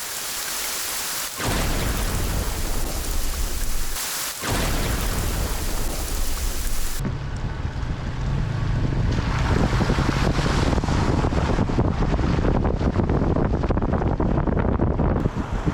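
Steady rain falling, with wind buffeting the microphone. The sound changes abruptly a few times, and from about seven seconds in a low wind rumble on the microphone dominates.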